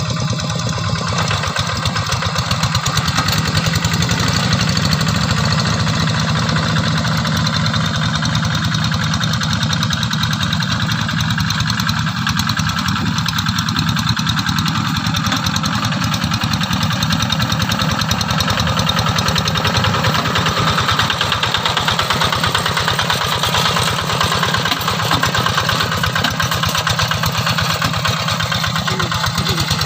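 Diesel engine of a Quick G3000 two-wheel hand tractor running steadily with a fast, even chugging while it plows a dry rice field.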